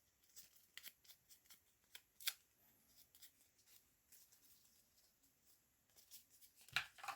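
Near silence with faint, scattered paper rustles and light clicks from paper being handled, one a little louder about two seconds in and another near the end.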